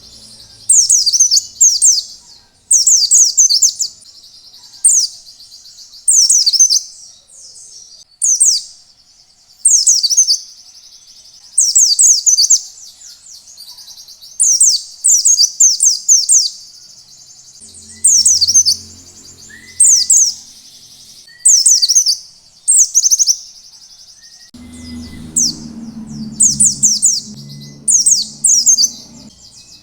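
White-eye (pleci) singing in short, high-pitched phrases of rapid falling notes, repeated about once a second, in the fast 'ngalas' style used as a lure to get other white-eyes singing. A faint low hum joins in the background near the end.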